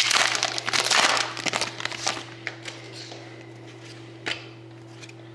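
Wrapper of a hockey card pack crinkling and tearing as it is opened, fading after about two seconds to faint handling, with one short knock near the end, over a steady low electrical hum.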